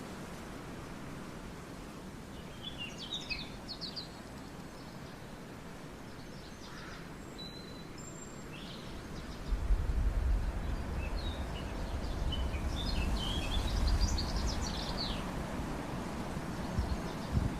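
Birds chirping in short bursts over a steady outdoor background hiss, with a low rumble from about ten seconds in.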